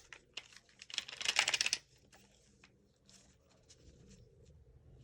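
Hands handling a small screw and parts of an airsoft rifle during disassembly: a sharp click at the start, a quick rattling scrape about a second in, then faint fiddling.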